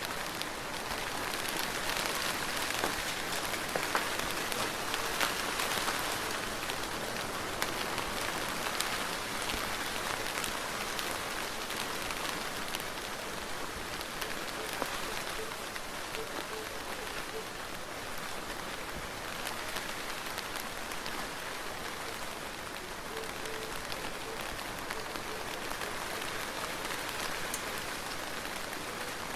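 Soft, steady rain falling on a surface, a continuous patter with many small individual drop ticks; slightly heavier in the first few seconds.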